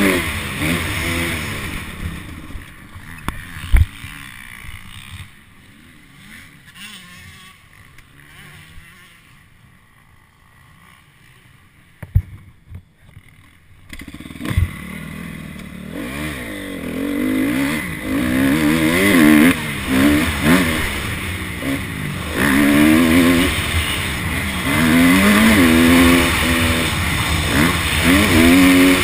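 Honda CRF250 four-stroke dirt bike engine revving up and down as it is ridden. The engine drops to a low level for several seconds in the middle, with a few sharp knocks, then revs hard again through repeated rising and falling sweeps.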